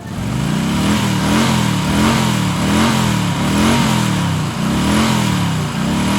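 Engine running with its pitch rising and falling in an even cycle, about once every three-quarters of a second, over a steady hiss.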